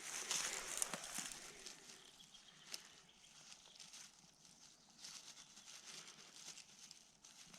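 Irregular rustling and crackling in plant growth close to the microphone, loudest in the first second and then fainter, with scattered small clicks.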